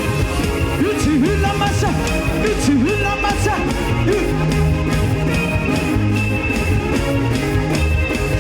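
Gospel praise band music with a steady drum beat, bass and guitar. A melody line slides up and down in pitch from about a second in.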